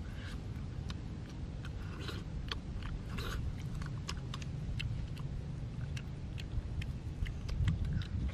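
Mouth sounds of biting and chewing cooked eel off a skewer: many short, sharp smacks and crunches over a steady low rumble.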